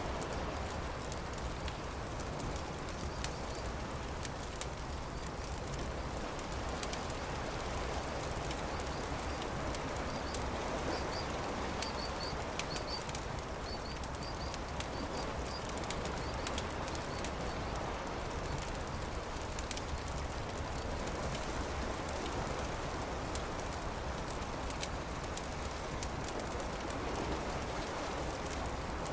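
Campfire crackling with frequent small pops over a steady rushing background. A few short high chirps come in a cluster near the middle.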